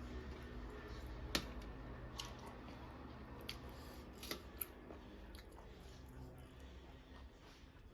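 Close-up eating sounds: a person chewing duck curry, with a few sharp clicks and snaps of mouth and teeth, the loudest about a second and a half in and two more near the middle.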